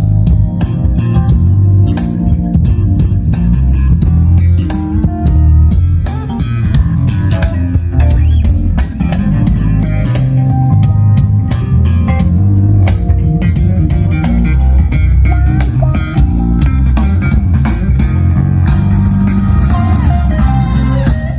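Recorded music with a prominent bass line, guitar and drum kit, played loud over a two-way PA loudspeaker system.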